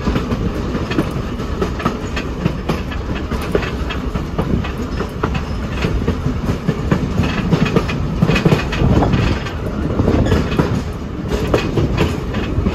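Passenger cars of a steam excursion train rolling along the track, heard from the rear of the moving train: a steady low rumble with the wheels clacking over rail joints and the cars rattling.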